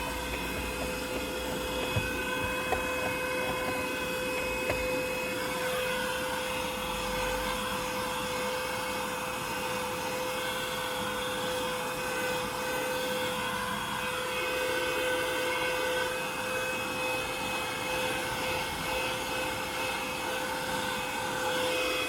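Vacuum cleaner running steadily inside a car, its motor a constant, even whine. There are a few light knocks a couple of seconds in.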